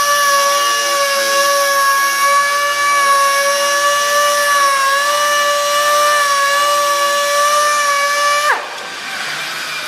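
6-inch dual-action (DA) sander running with a steady high whine while wet-sanding a clear-coated tabletop with 3000-grit paper. About eight and a half seconds in it is switched off and the whine drops away, leaving a softer hiss.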